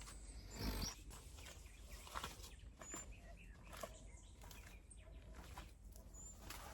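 Faint outdoor background noise with two short, high bird chirps, one about three seconds in and one near the end. A brief rustling noise, the loudest sound, comes just under a second in.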